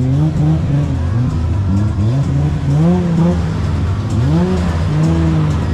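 Car engines revving in a rapid string of blips, each rising quickly in pitch and then dropping, about two a second and overlapping.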